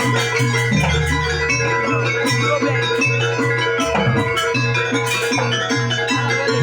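Live jaranan gamelan music: struck metal percussion over a quick, steady drum beat, with one note held throughout.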